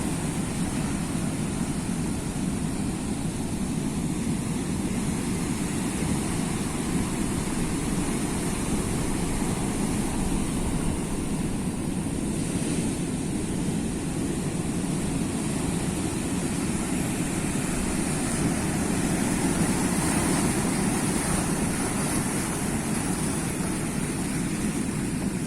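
Sea surf making a steady low roar of waves, with no separate crashes standing out and a slight swell about three quarters of the way through.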